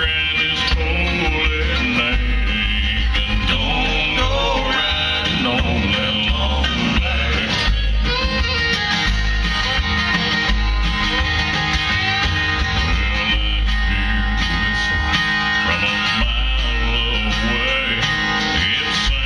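Bluegrass band playing live: guitar and other plucked strings over a bass line, with a wavering melody line above.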